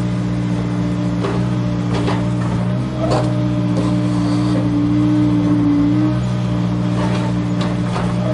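Small electric gear motors of a remote-control toy excavator running with a steady hum, its pitch stepping up about three seconds in and back down about six seconds in. Scattered clicks and knocks sound over the hum.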